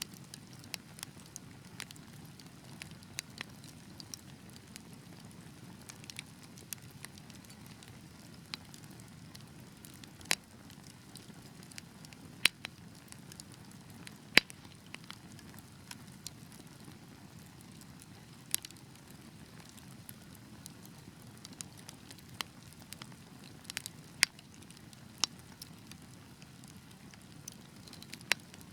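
Wood fire crackling: a low steady hiss of burning under irregular sharp pops and snaps, a few of them much louder than the rest.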